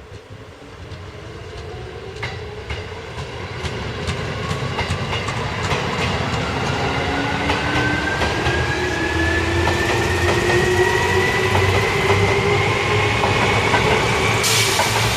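Seibu Railway electric train approaching and accelerating: its traction motors give a whine that rises steadily in pitch as it grows louder, with wheels clicking over rail joints. A short burst of hiss near the end.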